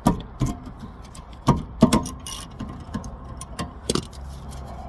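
Hand wrench working a 14 mm brake caliper bolt loose: sharp metal clicks and clinks, about three a second, a little uneven.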